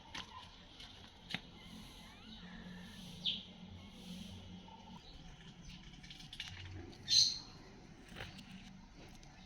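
Birds chirping: a few short, high calls over a faint steady background, the clearest about three seconds in and again about seven seconds in.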